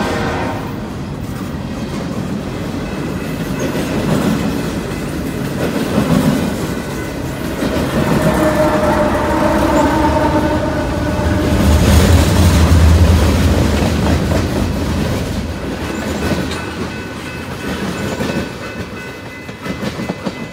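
A long freight train rolling past at close range: double-stack container cars, then a Canadian Pacific AC44CWM mid-train diesel locomotive going by, its engine loudest about twelve seconds in, then tank cars.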